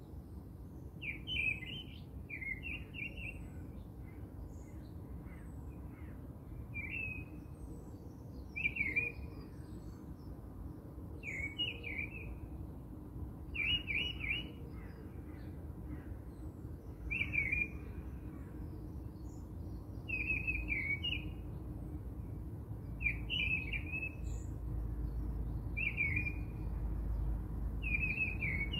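A bird chirping in short repeated phrases, one every one to three seconds, over a low steady rumble that grows louder near the end.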